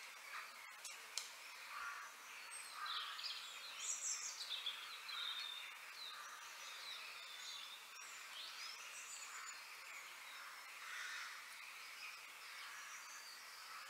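Several birds chirping and calling in short, varied phrases over a steady outdoor background hiss.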